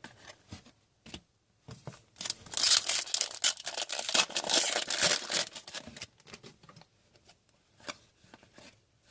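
Hockey trading cards and their foil pack wrapper being handled. A dense burst of crinkling and rustling lasts about three seconds, starting about two seconds in, with light clicks and flicks of cards before and after it.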